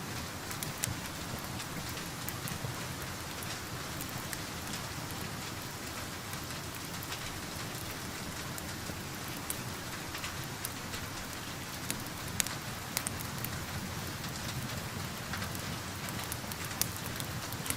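Steady rain falling, with scattered sharp ticks and pops throughout: raindrops and a wood fire crackling.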